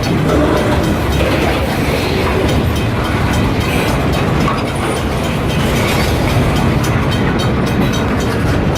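Freight train rolling past at close range: a steady rumble of wheels on rail with frequent clicks of the wheels over the rail joints.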